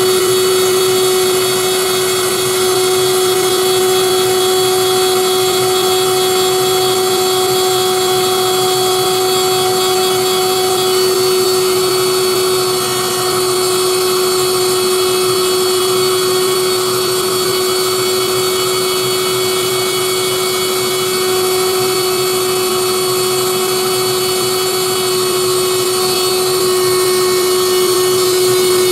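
Spindle motor of a DIY 3D-printed CNC engraver running with a steady whine while it engraves a PCB.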